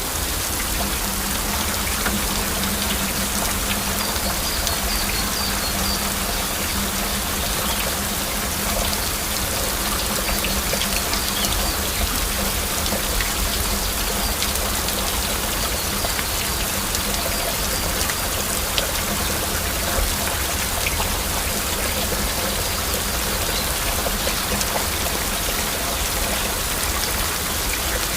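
Steady heavy rain, with many separate drops heard as small clicks in the downpour.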